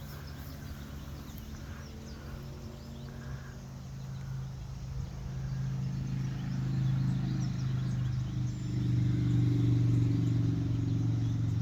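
A vehicle engine running with a steady low hum that grows louder over several seconds, as if coming closer.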